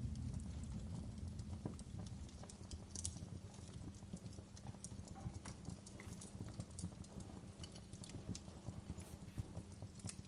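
Wood fire in a fireplace crackling, with irregular pops and snaps over a low steady rumble of burning.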